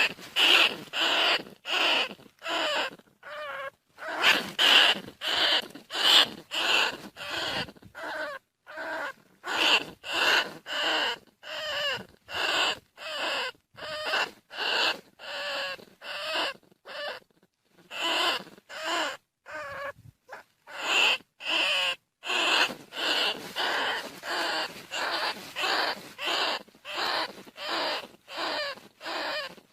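Bandicoot rat squeaking calls, short pitched squeaks repeated about twice a second with a brief pause about midway.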